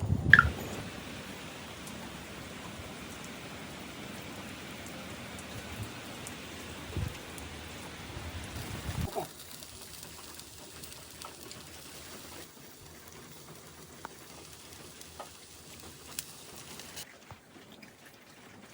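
Steady hiss of falling water, in several cut segments whose level drops suddenly about nine seconds in and again later. A brief loud knock sounds at the very start.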